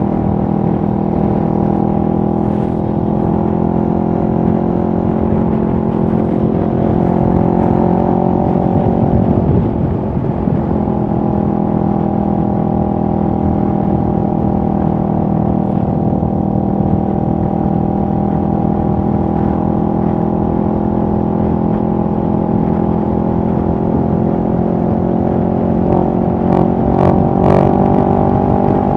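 2023 CFMoto 650NK's parallel-twin engine running at steady revs, with a brief break in its note about ten seconds in before it settles back to a steady pitch. A few short sharp clicks near the end.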